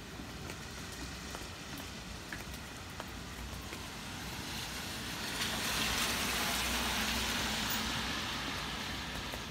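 A car passing on a wet road: its tyre hiss swells to a peak about six seconds in and then fades, over a steady background of rain.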